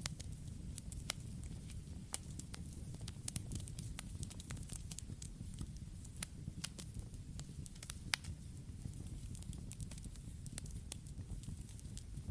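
Campfire crackling: irregular sharp pops and snaps from the burning wood over a low steady rumble of the flames, with one louder pop about eight seconds in.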